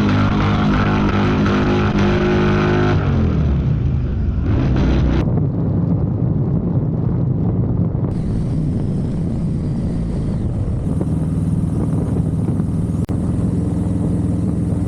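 Harley-Davidson Low Rider S 117 V-twin engine running. It is loud and steady at first, the revs drop about three seconds in, and it carries on at lower revs.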